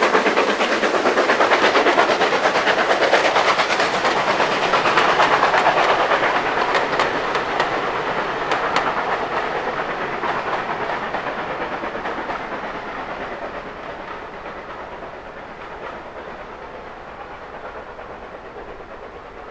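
A train running past with its wheels clattering rapidly over the rail joints. After about six seconds it fades steadily away as it recedes.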